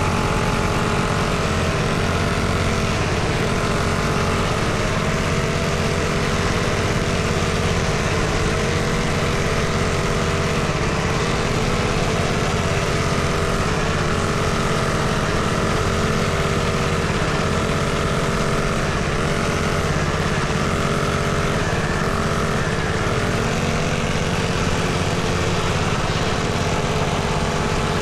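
Small motorcycle engine running continuously, its pitch wavering up and down slightly as the throttle is worked.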